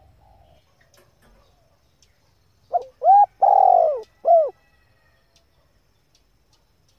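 Female spotted dove cooing: one phrase of four notes, a short note, two arched coos and a final arched coo, with the longest one third, about three seconds in.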